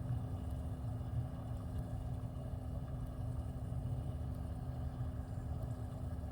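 A steady low motor rumble with a constant hum, unchanging throughout.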